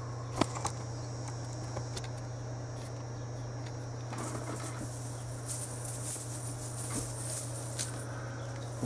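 Handling noise: a few sharp clicks in the first two seconds, then a scratchy rustle with small ticks from about four seconds in, over a steady low hum.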